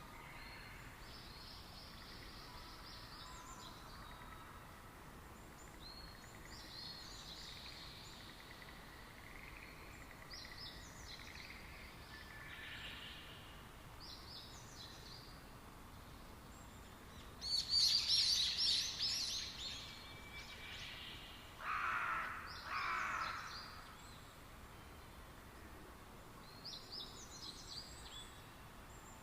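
Wild birds calling outdoors: short high chirps repeat every few seconds over a faint steady background. About two-thirds of the way through comes a louder cluster of calls, followed by two lower calls.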